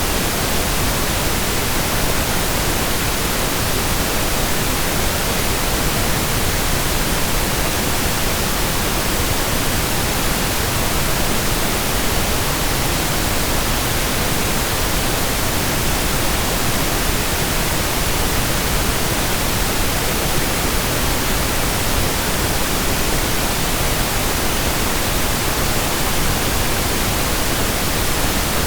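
Steady pink noise, even and unchanging.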